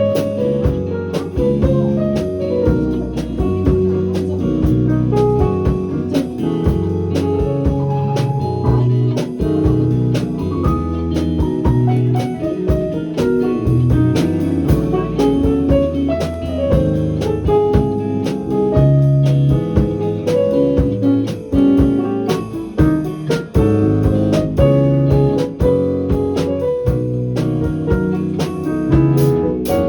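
Band music with piano or keyboard, drum kit and bass, playing an instrumental passage to a steady beat.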